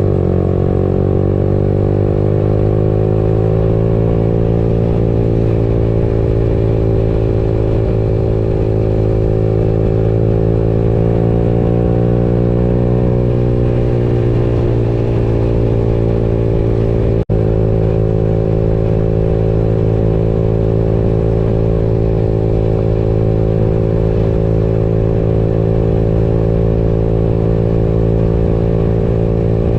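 Motorcycle engine running at a steady cruising speed, its pitch holding almost level, with one very brief dropout in the sound about seventeen seconds in.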